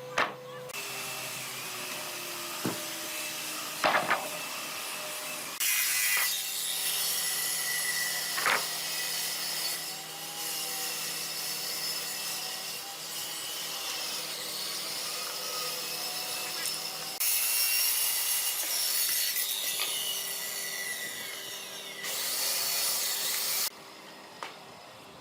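Wood being sawn and worked with tools, in a string of abruptly changing segments, with a few sharp knocks near the start and about four and eight seconds in.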